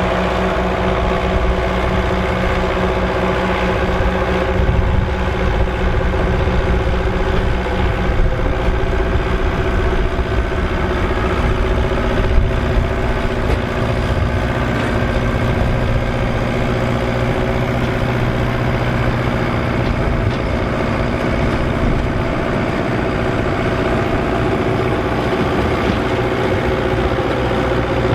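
Massey Ferguson 3070 tractor's diesel engine running steadily, its low tone changing slightly about halfway through, with one short knock near the middle.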